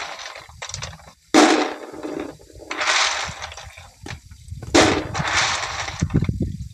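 A series of sharp blows, one about every one and a half to two seconds, each followed by about a second of noise.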